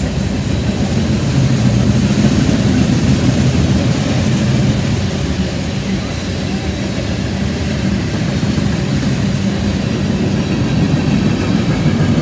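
Freight cars of a passing manifest train rolling by: a steady, low rolling noise of steel wheels on the rails.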